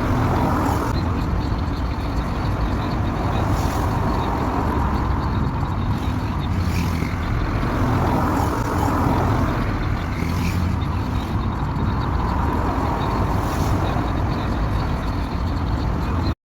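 Steady low rumble of a car on the move, with a short high swish about every three seconds; the sound cuts off suddenly near the end.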